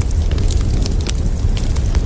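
Campfire crackling: many irregular sharp pops and snaps over a steady low rumble.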